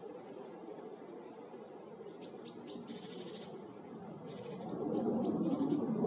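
A small bird chirping in quick, short high notes over the distant rumble of an F-35A's jet engine, which grows louder near the end as the jet comes back in.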